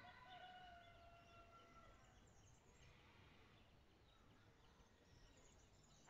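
Very faint outdoor quiet with a distant bird calling in long held notes during the first two seconds, then only faint background hiss.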